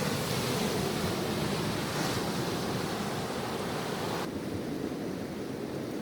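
Ocean surf washing onto the beach, a steady rushing hiss with some wind on the microphone; the bright upper hiss of the wash drops away about four seconds in.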